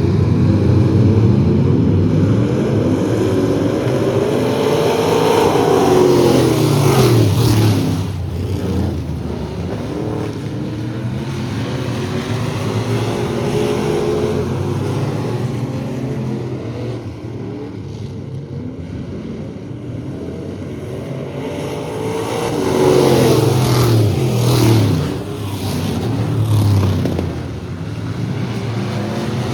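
Race trucks' engines running hard around an oval in a heat race. The pack sweeps loudly past twice, each time dropping in pitch as it goes by, and a steady engine drone carries on between the passes.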